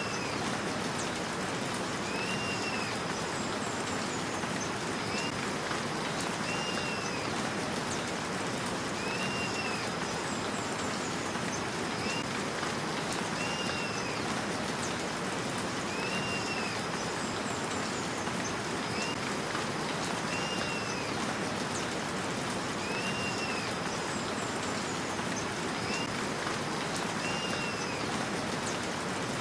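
Steady rain falling. A short call that rises and falls repeats about every two seconds.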